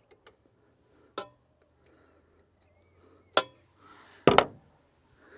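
A few sharp metallic clinks and knocks of a hand tool on the 7.3 IDI diesel's injector line fittings as a line nut is cracked open to bleed air from the fuel system. The loudest is a quick double knock about four seconds in.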